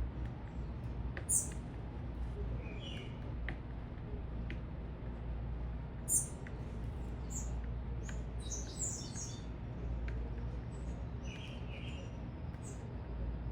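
Small birds giving short, high chirps: single calls about a second in and about six seconds in, and a quick run of chirps around nine seconds. A steady low rumble runs underneath.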